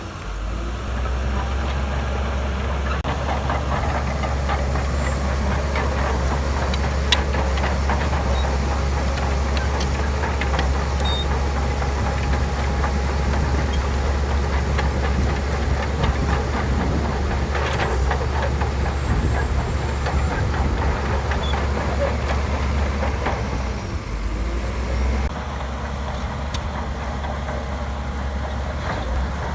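SHANTUI DH17C2 crawler bulldozer running steadily, its diesel engine with a low drone and its tracks and blade rattling and clanking as it works sand. The engine note drops a little near the end.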